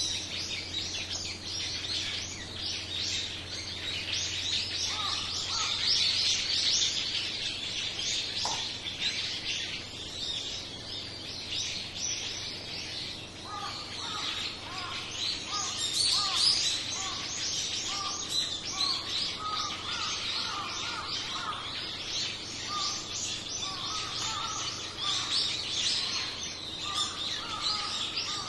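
A flock of small birds chirping densely and continuously, many calls overlapping. From about halfway through, a lower call repeats in short phrases alongside the chirping.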